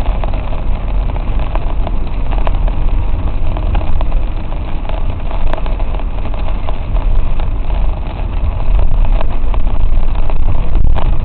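Car driving, a steady low rumble of engine and road noise with scattered small clicks, growing a little louder about nine seconds in.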